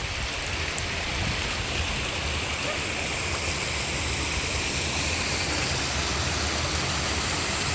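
Mountain stream water rushing and splashing over rocks, a steady full rush of flowing water.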